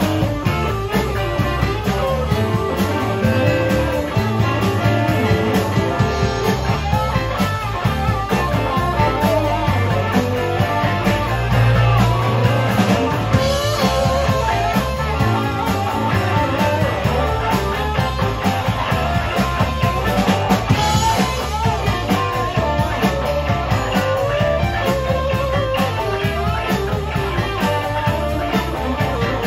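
Instrumental passage of a rock song: guitar lines over a steady drum-kit beat, with no singing.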